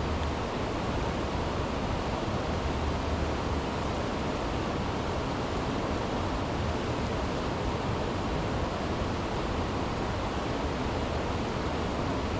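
Steady rush of flowing river water from the Chattahoochee River, an even, unbroken noise.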